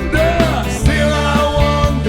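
Rock band playing a song live, with guitar, bass and drums.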